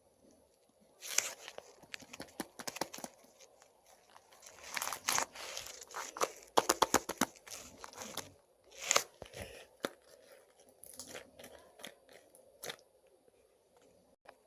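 Slime being worked by hand, with irregular crackling and popping clicks as it is pressed and pulled, and a quick run of clicks around the middle.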